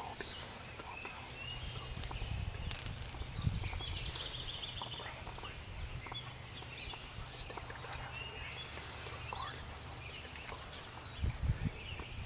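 Songbirds singing: several short trilled songs, over a steady low rumble, with a few soft knocks near the end.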